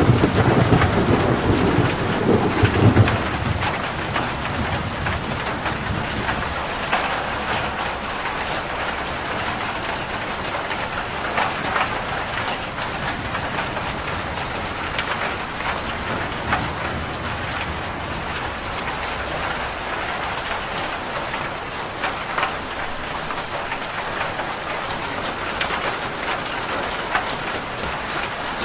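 Rain falling steadily on a roof, with many individual drops ticking on it. A thunder rumble at the start that fades over the first few seconds.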